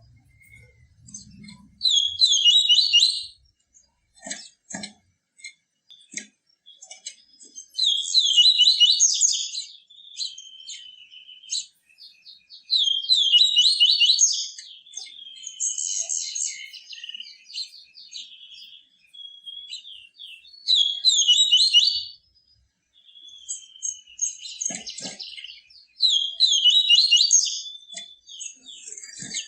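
Yellow-bellied seedeater (papa-capim) singing its 'tui tui viviti' song: loud, high phrases of quick notes repeated every few seconds, with softer twittering between them.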